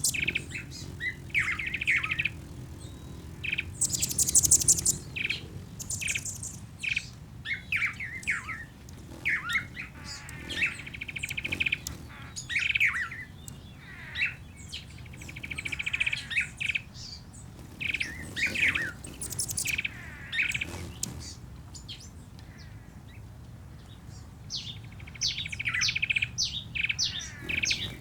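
Birdsong ambience: several birds chirping, with short rapid trills recurring every few seconds.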